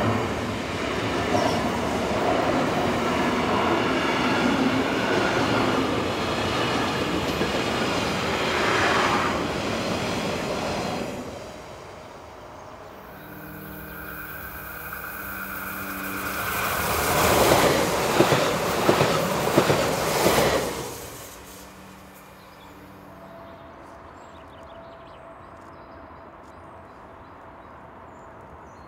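A freight train of intermodal wagons rolls past close by, its wheels clattering on the rails, until about eleven seconds in. An electric passenger multiple unit then passes with a steady pitched hum from its drive and clicking wheels, loudest around eighteen to twenty seconds. A quieter stretch with a faint steady tone follows.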